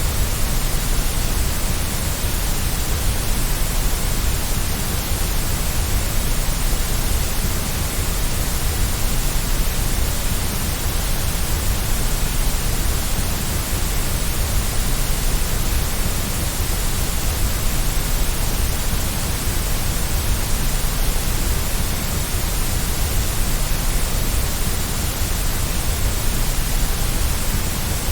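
Steady white noise: an even, unbroken hiss across the whole range, with no change in level.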